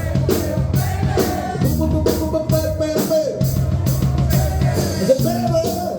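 Live rock band playing, the drum kit keeping a steady beat under the instruments between sung lines.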